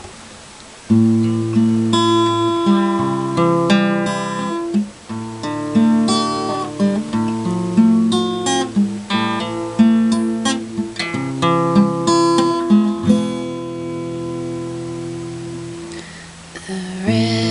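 Music: acoustic guitar picking chords note by note in a steady pattern, starting about a second in.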